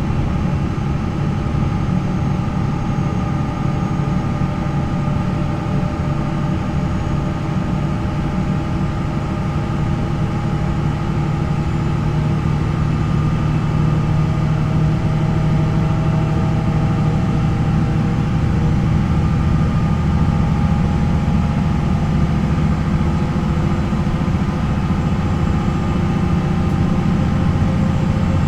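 MAN NL 263 city bus's D28 diesel engine with ZF Ecomat automatic gearbox running, its pitch drifting slowly up and down. It gets a little louder about halfway through.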